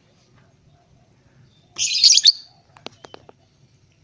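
Lovebird giving one loud, harsh, shrill screech about two seconds in, followed by a few sharp clicks.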